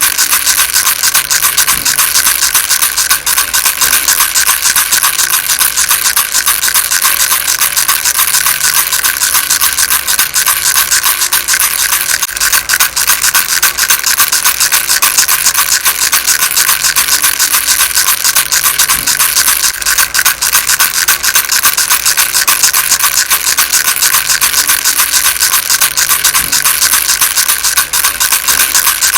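A baby rattle shaken without pause, giving a steady, dense, fast rattle of many small pieces clicking together, bright and scratchy.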